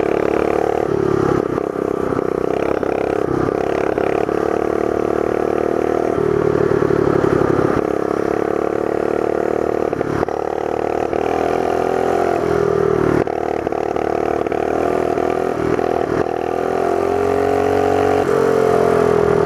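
Mini bike's small single-cylinder engine running steadily under throttle while being ridden, its pitch dipping and rising a few times and climbing again near the end.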